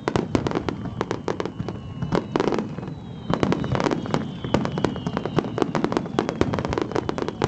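Fireworks display: a dense barrage of shell bursts and crackles, several bangs a second.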